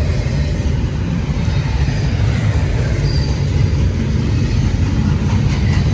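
Freight train rolling past, a steady low rumble of wheels and cars on the rails.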